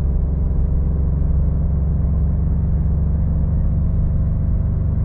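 Maserati GranTurismo Modena's twin-turbo 3.0-litre V6 engine running at a steady cruise, heard from inside the cabin as an even low drone.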